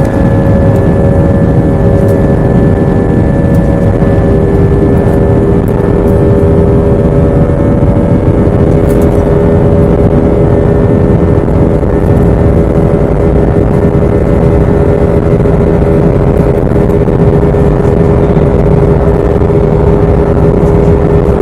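Airliner jet engines at takeoff thrust, a steady multi-tone whine over a heavy rumble, heard from inside the cabin during the takeoff roll and climb.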